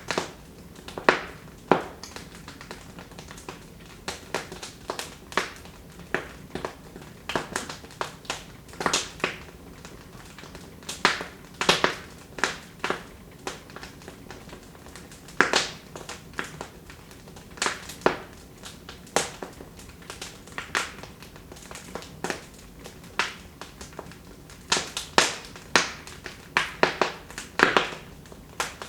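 Wood fire in a fireplace crackling: irregular sharp pops and snaps, a few each second, some louder than others, over a low steady hiss.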